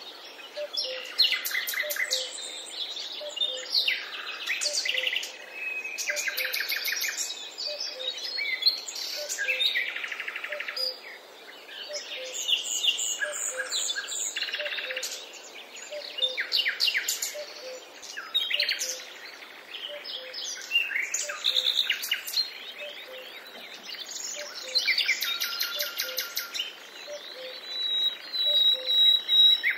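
Several wild songbirds singing at once, a dense mix of chirps, trills and short whistled phrases overlapping one another, with a faint low note repeating about once a second underneath.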